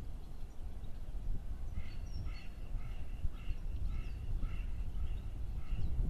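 A bird calling in a quick series of short notes, about three a second, starting about two seconds in, over a low background rumble.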